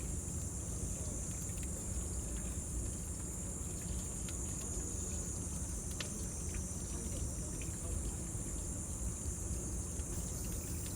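Cicadas droning in a steady high-pitched band, over the scattered pops and crackles of a bonfire and a low steady rumble.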